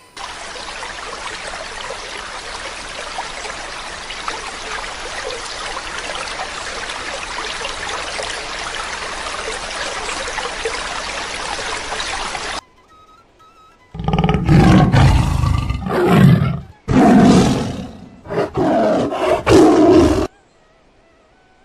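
A steady rushing noise for about the first twelve seconds, then, after a short pause, several loud, deep roaring calls from a large animal, with the last one ending near the end.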